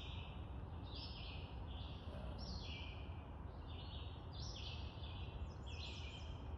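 Woodland birds singing, a phrase of several short notes repeating about every two seconds, over a steady low rumble of background noise.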